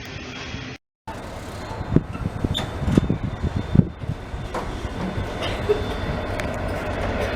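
Slow ballast train hauled by TT class GT46C ACe diesel-electric locomotives, rumbling steadily and getting louder toward the end, with irregular knocks and clunks from the train in the first few seconds.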